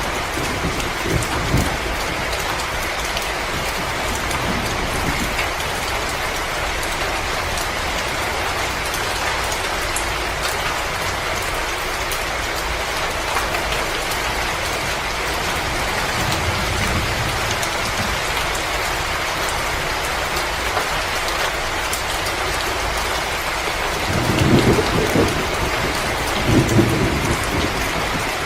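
Fire crackling in a fireplace over a steady hiss, with low rumbles about two thirds of the way through and twice near the end.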